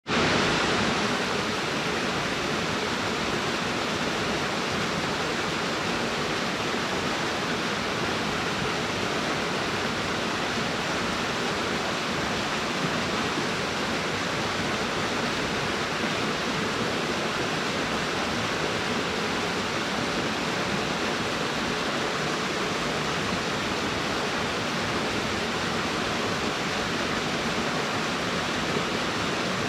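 A waterfall pouring steadily into its plunge pool, a constant, even rush of falling water.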